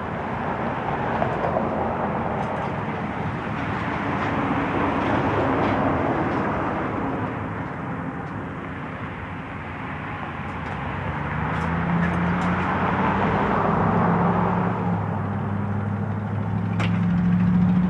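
Road traffic passing, the noise of vehicles swelling and fading as each goes by. About eleven seconds in, a steady engine hum with a low droning note comes in and grows louder toward the end.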